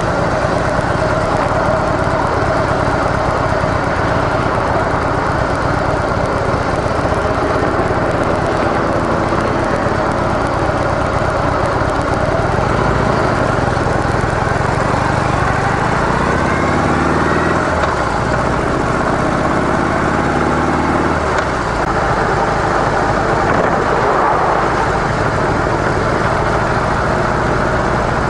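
Harley-Davidson CVO Softail Deluxe's V-twin engine running through its stock mufflers while riding, heard from on the bike. The engine pitch shifts up and down about halfway through as the throttle changes.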